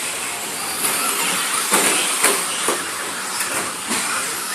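Radio-controlled cars running: a steady high-pitched whir and rush, with several sharp knocks or clatters, the loudest about two seconds in.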